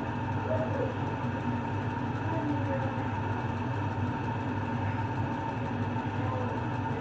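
A steady mechanical hum, low and even, with a faint higher tone held throughout.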